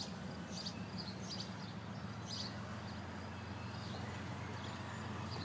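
Low steady rumble of a train approaching along the tracks, not yet in sight, with a few short, high bird chirps over it, mostly in the first half and once near the end.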